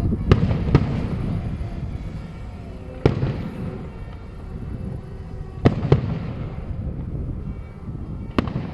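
Fireworks bursting overhead with sharp bangs: two in the first second, one at about three seconds, two close together near six seconds and one near the end, over a steady low rumble.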